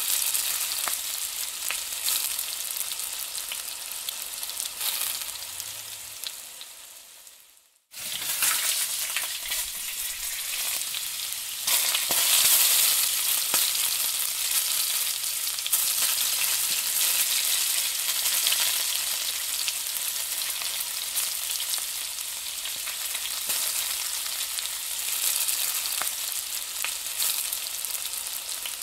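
Sliced onions and green chillies sizzling in hot oil in an aluminium kadai, stirred with a metal spoon. The sizzle fades away about a quarter of the way in, cuts straight back in, and is a little louder from about twelve seconds in.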